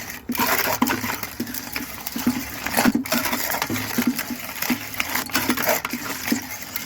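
Hand-cranked Foley food mill being turned, its metal blade scraping and squishing cooked grapes through the perforated bottom, with small metallic clicks and rattles in an irregular run of strokes.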